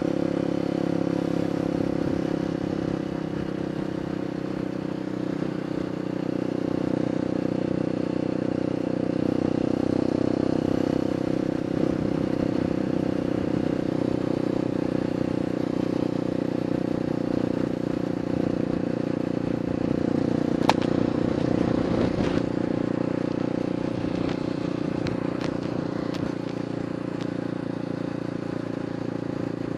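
Honda XR200's single-cylinder four-stroke engine running steadily through an open, unmuffled exhaust pipe. A single sharp click is heard about two-thirds of the way through.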